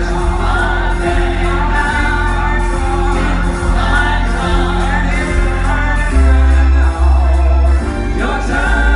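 Male vocal group singing a show tune live over loud instrumental backing with heavy bass.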